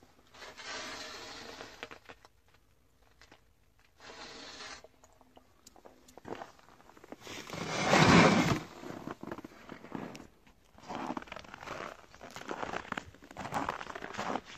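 Irregular crunching, scraping and crackling of something being handled or stepped on, with one louder rushing burst about eight seconds in.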